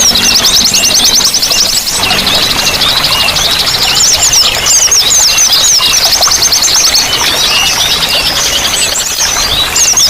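Several songbirds singing at once: dense, overlapping chirps and fast trills, over a steady rush of running water.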